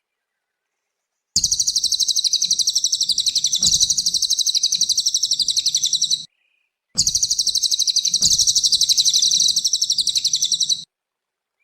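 Cililin songbird singing a fast, high-pitched trill of rapidly repeated notes in two long phrases of about four to five seconds each, with a short pause between them.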